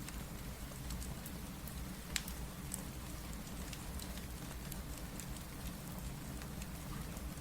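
Steady rain mixed with a crackling wood fire: an even hiss of rain over a low rumble, with sharp fire pops here and there, the loudest about two seconds in.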